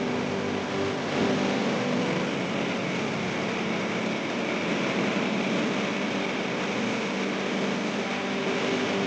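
Steady vehicle engine and road noise, running evenly with no change in pitch.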